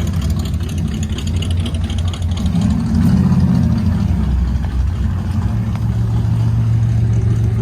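Car engine running at low speed, revving up briefly about three seconds in, then running steadily.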